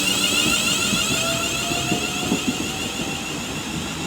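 Class 350 Desiro electric multiple unit accelerating away, its traction equipment making a warbling electric whine that slowly rises in pitch.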